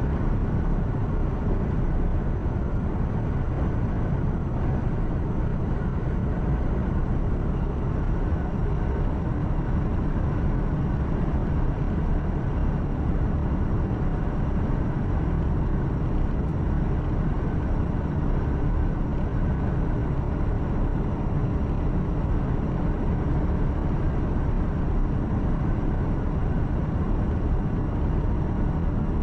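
Truck engine and tyre noise heard inside the cab while cruising on the highway: a steady low rumble that does not change.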